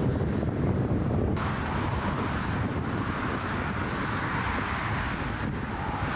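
Gusty wind buffeting the microphone: a loud, steady rush with fluttering low rumble. About a second in, a brighter hiss abruptly joins it and carries on.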